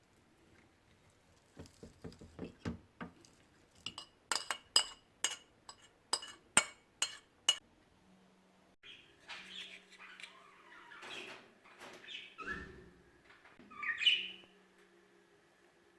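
A run of about ten sharp, ringing clinks, about two a second, as of something hard tapping glass or metal. Then budgerigars chirping and warbling, with one louder call near the end.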